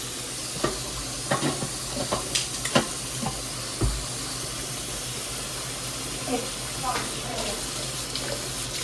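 Kitchen cooking sounds: a steady hiss of a pot on the stove, with a run of light clinks and knocks of pots and utensils in the first four seconds.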